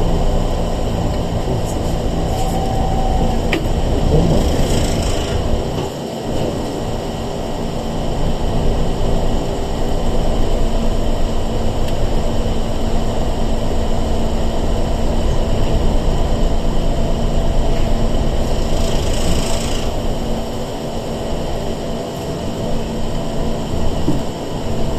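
Interior running sound of a Sanki Railway 101 series electric multiple unit (a former Seibu 401 series car) under way on the line, a steady rumble with two brief hisses, one about four seconds in and one about twenty seconds in.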